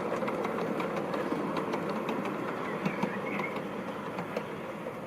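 G-scale model diesel locomotive and freight wagons running on garden track: a steady rumble with a stream of small clicks from the wheels on the rails, growing a little quieter toward the end, with a brief high squeak about three seconds in.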